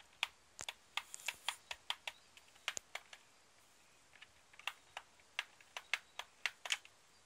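Raindrops striking the window close to the microphone: irregular sharp ticks and taps, several a second, with a short lull about halfway through, over a faint hiss of rain.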